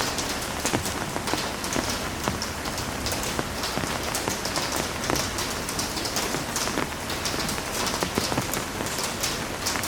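Heavy rain falling steadily: a constant hiss with many sharp drop impacts ticking through it.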